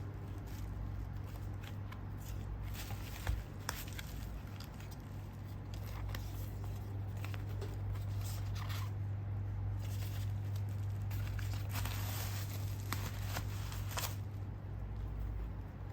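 Packaging being handled during an unboxing: intermittent rustling and crinkling with scattered sharp clicks, over a steady low hum.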